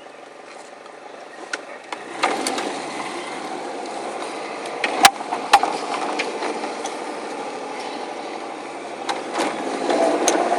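Subaru WRX turbocharged flat-four engine starting about two seconds in and settling into a steady idle, with two sharp clicks a few seconds later; the engine has a failing connecting-rod bearing (rod knock).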